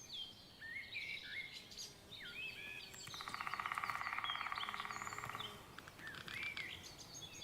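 Songbirds chirping in short, separate calls, with a rapid pulsing trill joining in about three seconds in and lasting some two and a half seconds.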